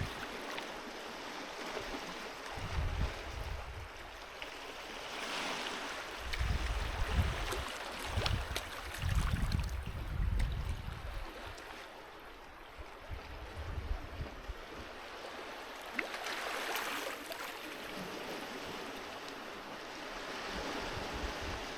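Sea waves washing onto a beach in slow swells, with two larger washes about five and sixteen seconds in. Irregular low rumbles come and go underneath.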